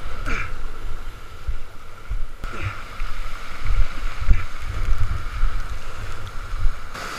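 Storm-force wind buffeting the microphone in a loud, gusting rumble, with water rushing and splashing while windsurfing.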